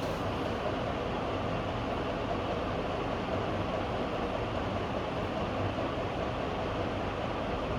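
Cheaply made clone of a TMT ceiling fan running steadily: an even rush of air off its steel blades with a low hum underneath.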